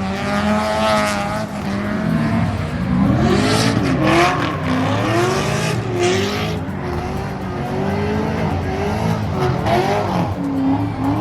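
Car engine revved up and down over and over, its pitch rising and falling every second or so, with short rushes of hissing noise in the middle.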